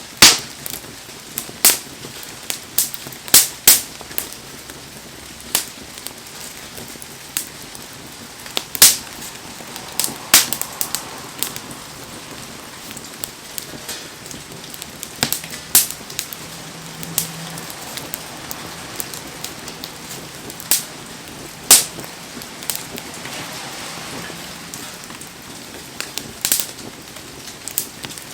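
Wood bonfire crackling, with sharp, irregular pops, over the steady hiss of heavy rain.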